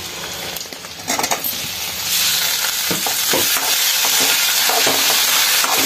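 Vegetables frying in hot oil in a metal kadai, sizzling as chopped tomatoes go in with shallots, garlic and ivy gourd. The sizzle grows much louder about two seconds in, and a metal spoon stirs and knocks against the pan.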